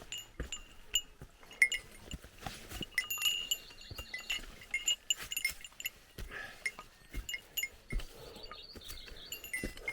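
A small bell jingling and clinking irregularly with each step, over the knocks of footsteps. This fits the bear bell commonly carried by hikers in Japan.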